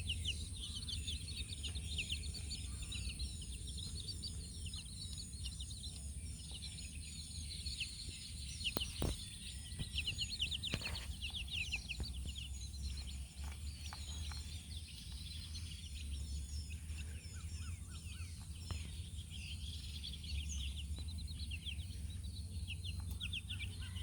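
Many baby chicks peeping continuously, a dense overlap of short, high chirps, over a steady low hum. There is a single sharp knock about nine seconds in.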